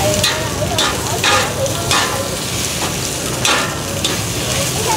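Bột chiên (rice-flour cake pieces) frying in oil on a hot pan, sizzling, with a metal utensil scraping and stirring against the pan in a series of irregular strokes.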